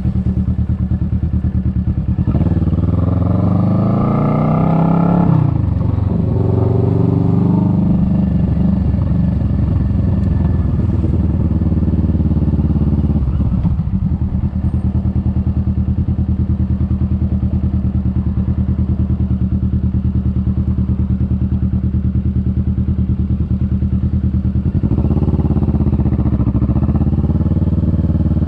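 Kawasaki Vulcan S 650's parallel-twin engine pulling through the gears. Its pitch climbs, drops sharply and climbs again, as at gear changes, then holds steady at a cruise before rising once more near the end.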